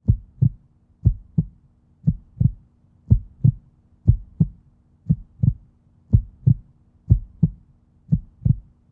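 Heartbeat: nine double lub-dub thumps, about one a second, over a faint steady low hum.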